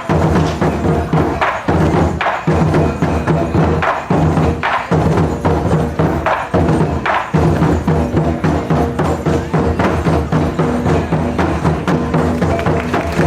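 Taiko drum ensemble playing: a fast, dense run of drum strikes mixed with sharp wooden clicks.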